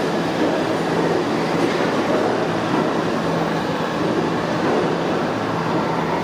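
New York City subway train running along the track in an underground station: a steady, loud rumble of steel wheels on rail, with a faint steady hum underneath.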